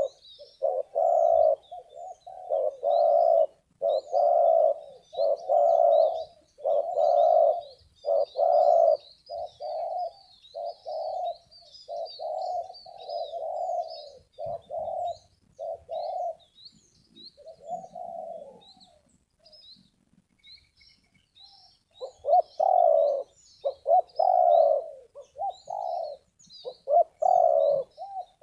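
Spotted doves cooing: a rapid string of low, crisp coos, pausing for a few seconds past the middle and then starting again. Small birds chirp faintly and high-pitched throughout.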